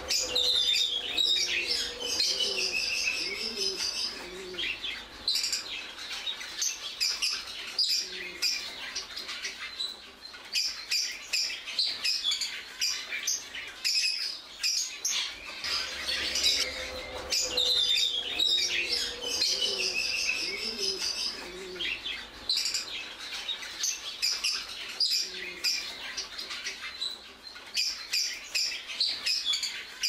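Birds chirping and twittering in a dense, high-pitched run of quick calls and short falling glides, the same stretch of calls repeating about every 16 seconds.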